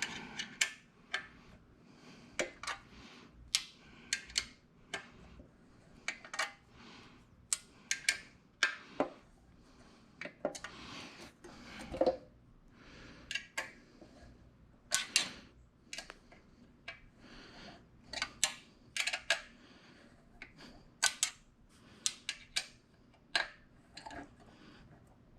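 Irregular sharp metallic clicks and clinks of bolts and metal stand parts being handled and hand-threaded.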